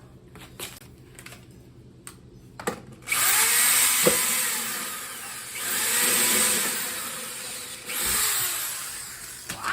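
Power drill boring into the housing of a Farberware coffee maker, starting about three seconds in after a few faint clicks. The motor speed rises and falls several times as the bit works through the casing, and it goes through cleanly.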